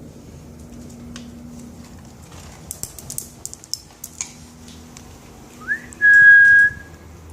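A person whistling to call cats: one short whistle that rises, then holds a steady high note for under a second near the end. Before it come a scatter of light clicks.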